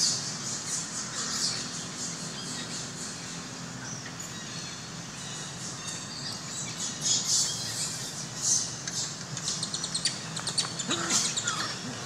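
Small birds chirping: quick, very high chirps, coming thicker in the second half, over a faint low steady hum.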